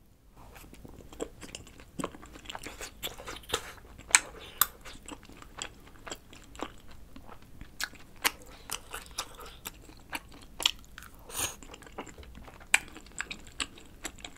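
Close-miked chewing of chewy wheat-flour rice cakes (milddeok tteokbokki) in a creamy carbonara sauce: wet mouth smacks and clicks at an irregular pace, a few of them louder.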